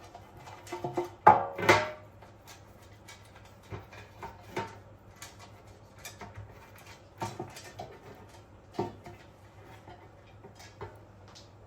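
Kitchen dishes and utensils being handled, with scattered knocks and clinks. The loudest is a ringing clatter about a second and a half in.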